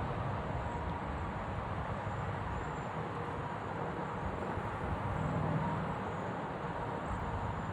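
Many birds calling at once, short high chirps repeating over a steady low rumble.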